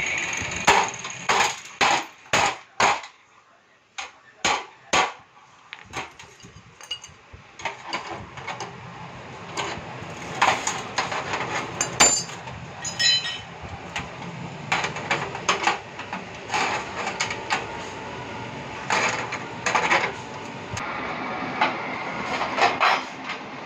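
Repeated sharp knocks of tool work on metal parts: about five quick strikes in the first three seconds, a few more spaced out just after, then irregular tapping and clattering.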